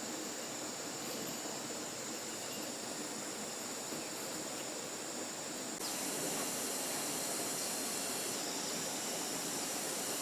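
Steady outdoor background noise, an even hiss with a thin high tone running through it. It gets louder and brighter suddenly about six seconds in.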